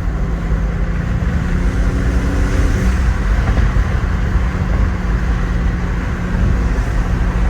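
BMW G80 M3's twin-turbo straight-six running steadily while cruising, a constant low drone mixed with tyre and road noise.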